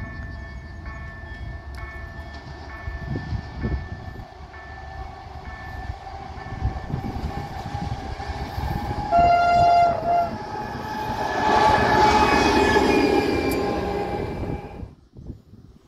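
Level-crossing warning bell ringing in a repeating pattern. About nine seconds in, a locomotive sounds its horn for about a second, the loudest sound. It then passes close by with a loud rumble of engine and wheels on the rails, which cuts off suddenly near the end.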